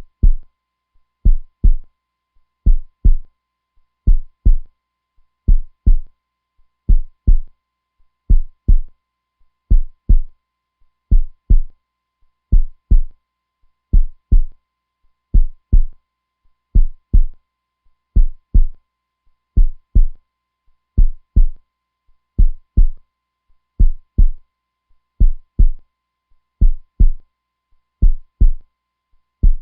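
Heartbeat: a steady, even lub-dub of two deep, dull thumps close together, repeating about once every one and a half seconds.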